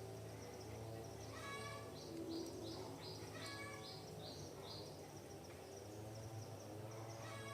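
Forest birds calling: a harsh, many-toned call twice, with a run of about seven short high notes, roughly two a second, in between. A steady low hum lies beneath.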